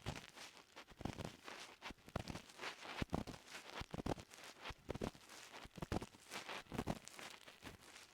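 Ear pick scraping and rubbing inside an ear: an irregular run of short scratchy strokes and rustles, a few a second, some louder than others.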